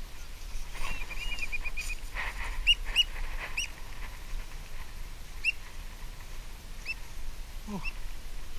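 Birds calling over the shoreline water: short, high whistled calls every second or so, with a quick run of piping notes about a second in.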